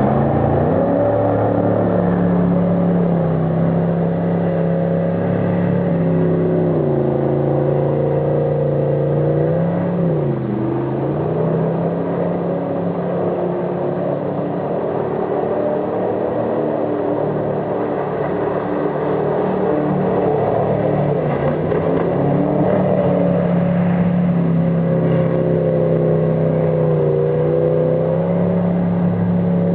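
Jet boat engine running steadily under power. Its note drops twice in the first third, stays lower through the middle, then climbs back up about three quarters of the way through.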